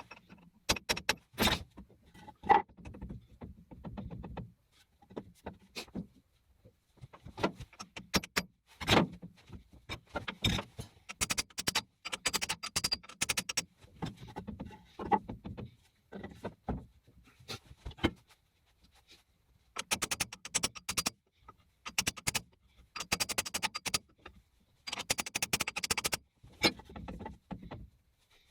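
Irregular metallic clicks, knocks and short rattling bursts with quiet gaps between them, as of tools and metal parts being handled on a Sheldon lathe; no motor is running.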